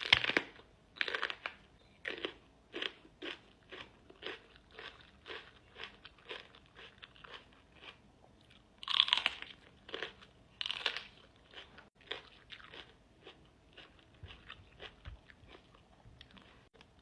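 Close-up crunching and chewing of crisp fresh fruit: loud bites at the start and twice more about nine and eleven seconds in, with steady chewing strokes about two a second in between.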